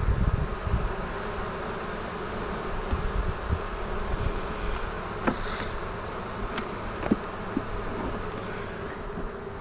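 Honeybees buzzing steadily around an opened hive, with a few light knocks and clicks from the hive frames being handled.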